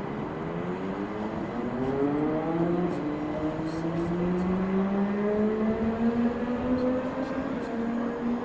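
A train accelerating away, its drive note a whine that rises slowly and steadily in pitch.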